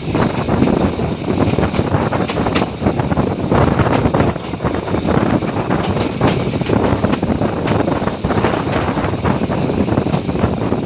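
Suburban diesel train running fast with its locomotive opened up to the fifth throttle notch, a loud, steady rush of noise with scattered sharp clacks. Wind buffets the microphone.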